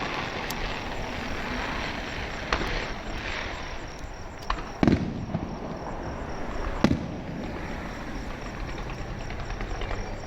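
Electrically fired fireworks going off: a steady crackle with several sharp bangs, the loudest about five seconds in and another near seven seconds.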